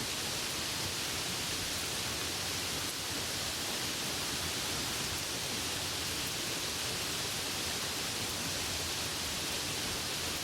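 Steady rain, an even hiss with no distinct drops or changes.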